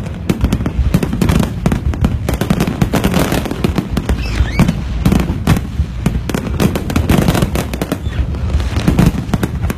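Aerial fireworks barrage: a dense, unbroken run of rapid overlapping bangs and crackles over a deep rumble.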